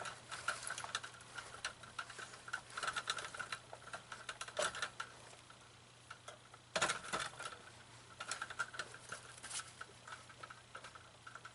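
Small clicks, taps and rustles of hands working on a life-size animatronic prop and its costume, with one sharper knock about seven seconds in. A faint steady hum runs underneath.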